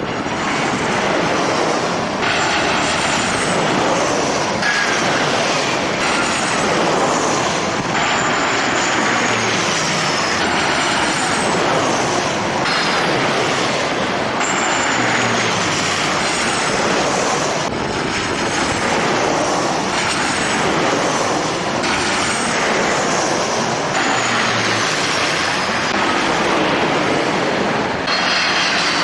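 Jet airliner engines running loudly, with a high turbine whine that glides down in pitch several times, over heavy noise; the sound shifts abruptly every few seconds.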